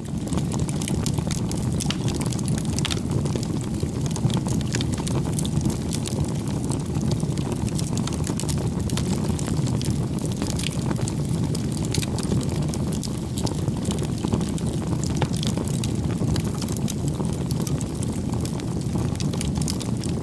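Campfire burning: a steady low noise of the flames with frequent small crackles and pops of burning wood.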